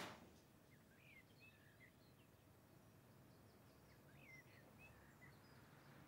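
Near silence: faint room tone with a soft thump at the very start, and distant birds chirping faintly in two short bouts, about a second in and again about four seconds in.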